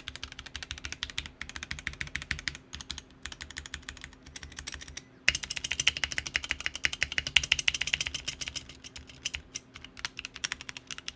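Typing on a TKC Portico 65% mechanical keyboard with unlubed Kiwi tactile switches and Protico keycaps: a rapid, steady patter of key clicks. After a brief pause about halfway through, the typing comes back louder and faster.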